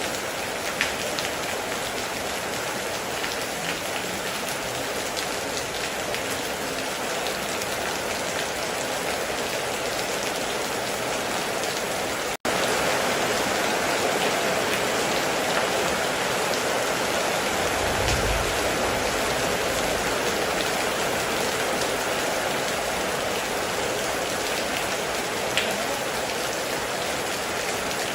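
Steady heavy rain falling on a hard surface, an even hiss with the odd louder drop. About 12 seconds in the sound cuts out for an instant and comes back slightly louder, and a brief low rumble comes about two-thirds through.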